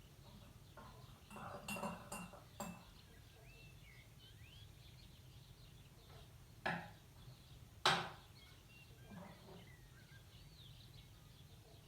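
Outdoor ambience of faint bird chirps over a steady low rumble, broken by a few sharp clinks and knocks. They come as a small cluster about two seconds in, then two louder single clinks about seven and eight seconds in.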